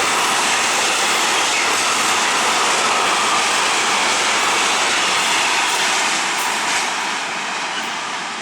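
A train passing through the station: a steady rushing noise of wheels on rail and moving air, easing off slightly near the end.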